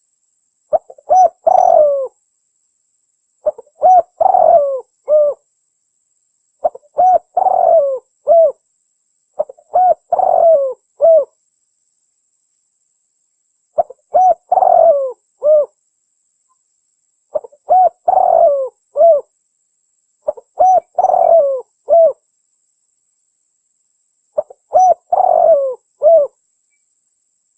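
Red turtle dove cooing: a phrase of several short, low coos, repeated about every three and a half seconds with short silences between. This is a lure call used for trapping the bird.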